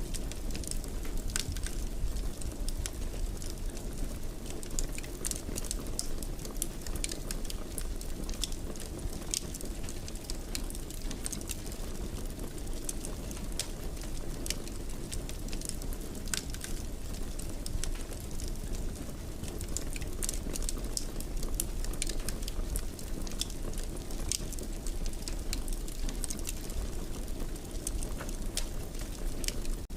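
Fire burning in a fireplace, crackling and popping with many irregular sharp snaps over a steady low rush of flame.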